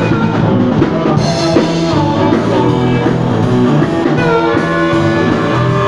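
Blues band playing an instrumental passage between sung lines: guitar with drums.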